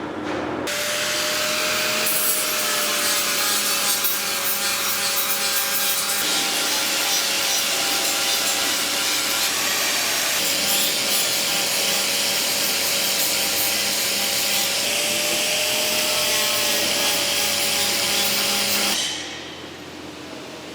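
Power grinder grinding steel with a steady hiss and a faint motor whine that dips slightly under load; it starts about a second in and stops shortly before the end.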